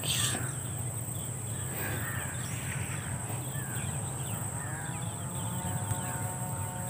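Background ambience of birds chirping and calling over a steady low hum, with a faint high whine; a held, pitched tone comes in about five seconds in.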